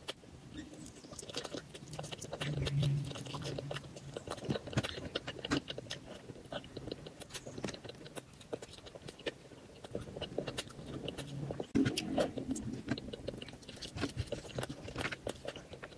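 Close-miked chewing, biting and wet mouth sounds of a person eating curried chicken and rice by hand, full of small rapid clicks. Two short low hums, about three and twelve seconds in.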